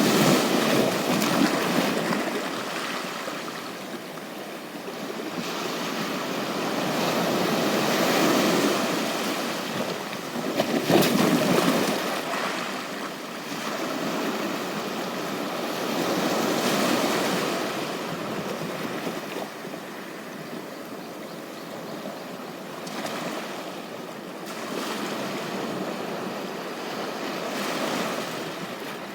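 Ocean surf washing onto a beach, swelling and fading every few seconds. The loudest wash comes about eleven seconds in.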